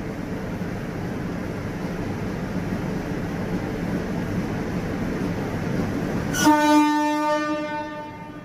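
Train running with a steady rumble that slowly gets louder. About six and a half seconds in, the rumble drops away and the horn of a WAG9 electric locomotive sounds one long blast, loudest at first and then fading.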